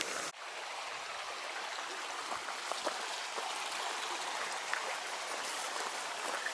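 A small stream running steadily, an even rush of water with a few faint ticks over it.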